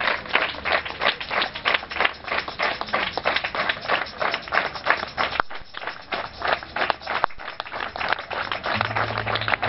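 Many hands clapping together in a fast, steady rhythm. Near the end a low held note comes in under the clapping.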